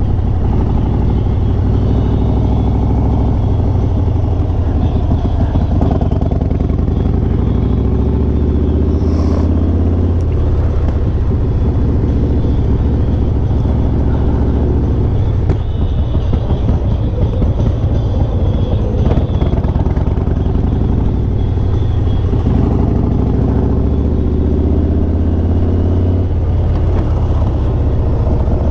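Harley-Davidson Sport Glide's V-twin engine running at low revs as the bike rolls slowly, the throttle rising and easing off a few times.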